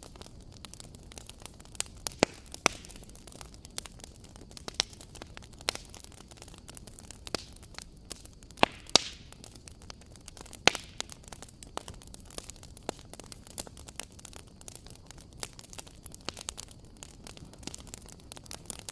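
Fire in a fireplace crackling: irregular sharp pops and snaps over a soft low rumble, with a few louder pops a little before the middle.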